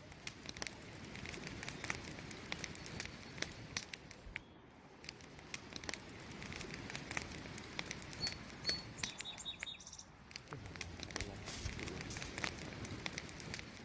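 Wood campfire crackling and popping in quick, irregular snaps over a low hiss of burning. A few short, high bird chirps come in about eight to nine seconds in.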